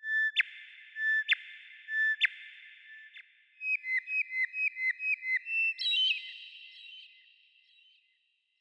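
Bird song of clear whistled notes. There are a few long notes with sharp clicks in the first two seconds, then a run of about a dozen short repeated notes, each hooking downward at its end, about three a second, and a cluster of higher notes near six seconds in. The song stops about eight seconds in.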